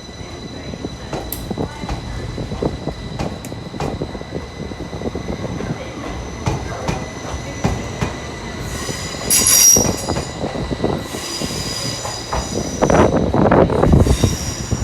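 A train moving on the rails, its wheels squealing high-pitched in three stretches, with clicks over the rail joints and a rumble that grows louder near the end.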